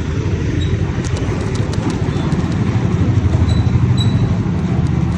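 Motorcycle engine running under way, a steady low rumble with a rapid pulsing beat, slightly louder from about halfway through.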